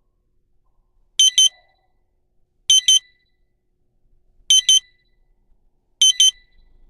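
Electronic double beeps from an electric fireplace's controls, four of them about a second and a half apart, each beep confirming a button press as the flame light brightness is stepped through.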